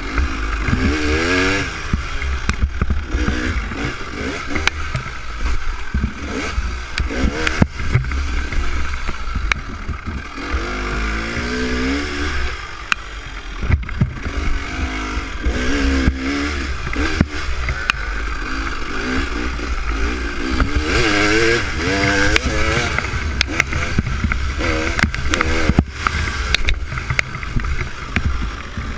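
Dirt bike engine on a trail ride, its pitch rising and falling again and again as the throttle is opened and closed at modest speed, with scattered sharp knocks and clatter throughout.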